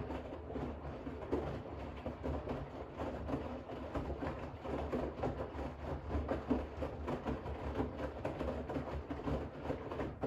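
Bosch WAX32GH1 front-loading washing machine in the rinse phase: the drum turns for about ten seconds, tumbling wet towels with water sloshing over a steady motor hum, then stops right at the end.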